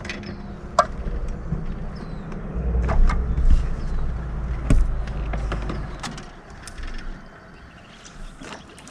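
A boat's motor running low and steady, strongest midway and then fading, with several sharp knocks and clicks over it.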